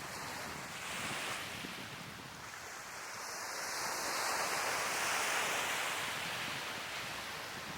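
Sea waves washing onto the shore, a steady rush of surf that swells to its loudest about five seconds in and then eases off.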